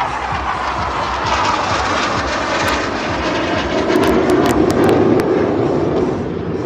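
Jet aircraft of the Surya Kiran aerobatic team, BAE Hawk trainers, flying low past with a steady jet roar that swells to its loudest about four seconds in and then eases off.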